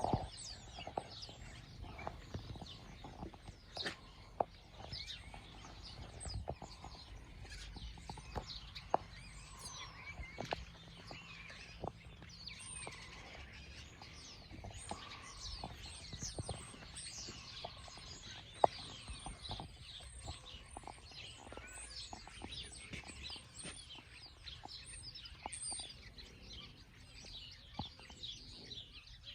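A flock of small birds chattering together, many quick high chirps and short whistles overlapping without a break, over a low background rumble.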